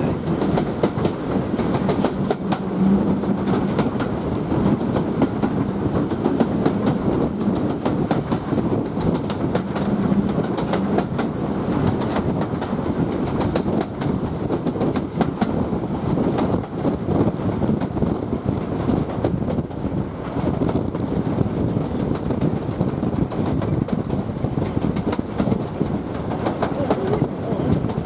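Passenger coach running along the line behind a steam locomotive: steady rumble and rattle of the wheels on the rails, with frequent short clicks and clatters from rail joints.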